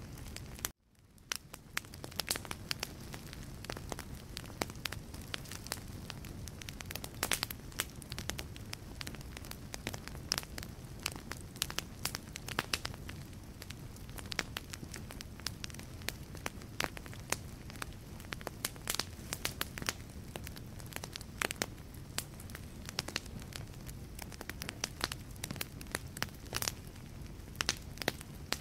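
Wood logs burning in a fireplace, crackling with frequent sharp pops over a steady low rumble of the flames. About a second in, the sound cuts out for a moment and fades back up.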